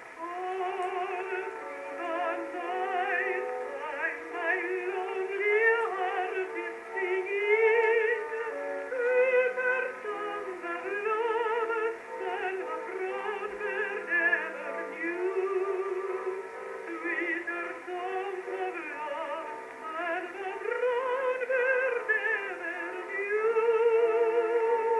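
A soprano sings a slow ballad with wide vibrato over held accompaniment notes, from an acoustically recorded Edison Diamond Disc played on an Edison Jacobean phonograph. The sound is narrow and thin, with no deep bass and no high treble.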